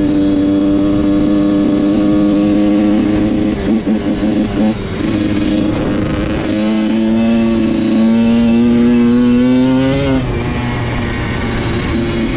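Dirt bike engine running under throttle. It briefly stutters about four seconds in, then climbs steadily in pitch as it revs up, and drops back shortly before the end.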